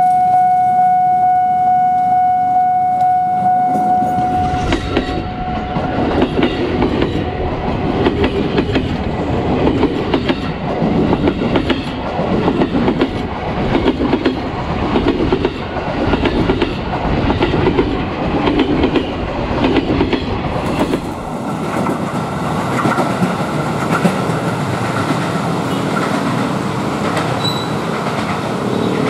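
A KRL electric commuter train running past over rail joints, its wheels striking each joint in a clickety-clack rhythm of roughly one knock a second. A steady warning tone sounds over the approach in the first few seconds. Near the end it gives way to the quieter rumble of another approaching train.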